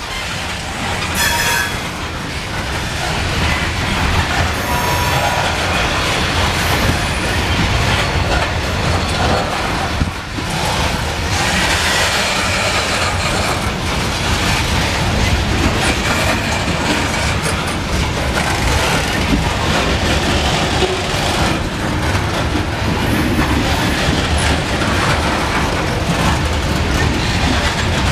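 Loaded coal hopper cars rolling past on steel wheels: a steady rumble and clatter of wheels over the rail, with a few brief wheel squeals near the start.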